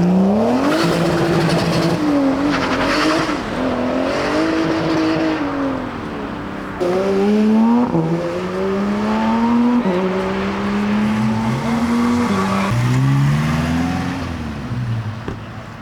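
Cars accelerating hard away from the meet, their engines revving high. The pitch climbs and drops back at each gear change, several times over, and the level falls near the end as they pull away.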